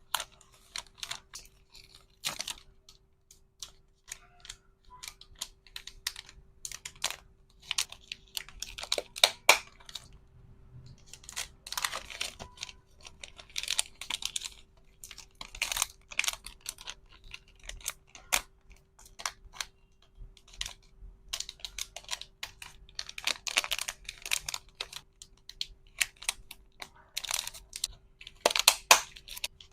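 Hands packing resin hair clips: scattered sharp clicks and taps of small plastic items, with bursts of plastic wrapping rustling and crinkling every second or two. A faint steady hum runs underneath.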